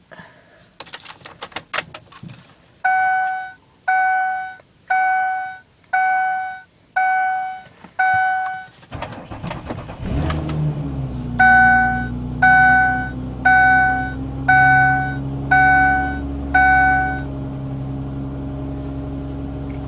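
Cold start of a 2005 Mercury Sable's Duratec 3.0 V6 at about 10 °F: a few clicks, a dashboard warning chime beeping six times, then the starter cranks briefly and the engine catches about ten seconds in and settles into a steady idle. The chime beeps six more times over the running engine. The owner found it unusually slow to start for this car.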